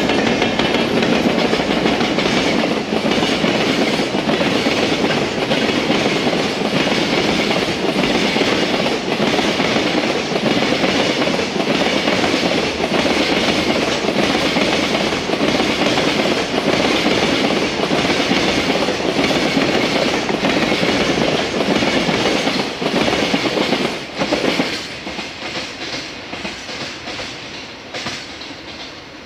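Container freight train's wagons rolling past close by, their wheels clattering over rail joints in a steady rhythm. The sound drops about 24 seconds in and fades as the end of the train passes and draws away.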